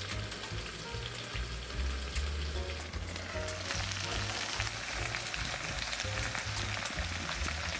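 Pork neck sizzling and crackling as it roasts in a camp oven, the sizzle growing denser about halfway through.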